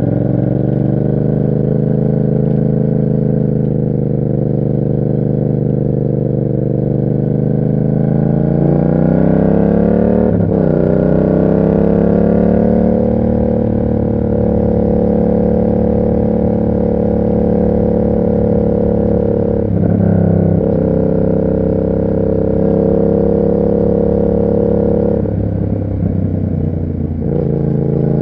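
Yamaha MT-07's parallel-twin engine running through an SC Project aftermarket exhaust while riding. The engine is steady, with the revs climbing about a third of the way in. There are short breaks in the note, as at gear changes, about ten and twenty seconds in and a few more near the end.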